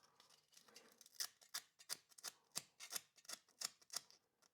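Sandpaper scrubbed back and forth on a metal bolt contact, short scratchy strokes about three a second starting about a second in, cleaning off dirt so the starter wiring makes good electrical contact.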